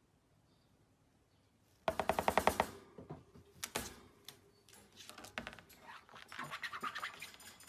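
Pet bird giving rapid pulsed chattering calls: a loud fast burst about two seconds in, then quieter runs of chatter through the second half.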